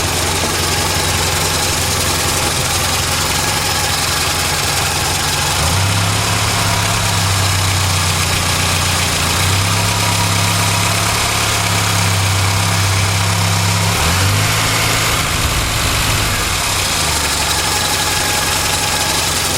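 1970 Morris Minor's 1098 cc A-series four-cylinder engine idling steadily. Its idle note rises a little about six seconds in, wavers around fourteen seconds and settles back lower near the end.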